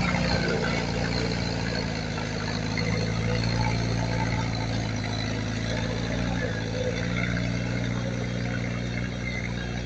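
Heavy diesel earthmoving machine engine running steadily at an even, low drone.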